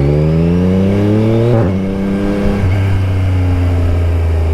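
Yamaha Tracer 9 GT+'s 890 cc inline-three engine running through a full Akrapovic race exhaust with the baffle removed. It accelerates hard with a rising note, and about a second and a half in the pitch drops suddenly on an upshift. The engine then settles to a steadier note that slowly falls away.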